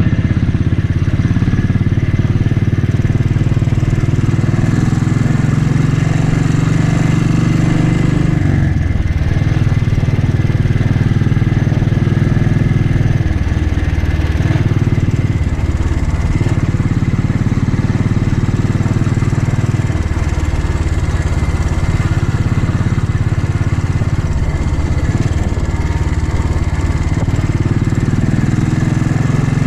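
Royal Enfield motorcycle engine running while being ridden, its engine note stepping up and down several times as the throttle and gears change.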